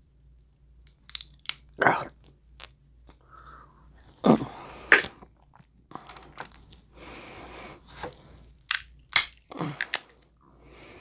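Close-up chewing with a run of sharp cracks and crunches as boiled crab leg shells are broken open, the loudest cracks clustered about four to five seconds in.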